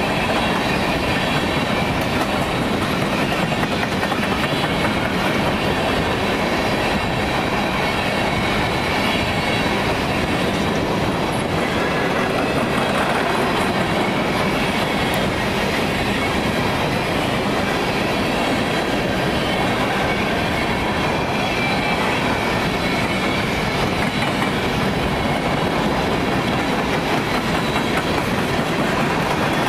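Railroad cars rolling past close by in a steady, continuous rush of noise, their wheels clattering over the rail joints.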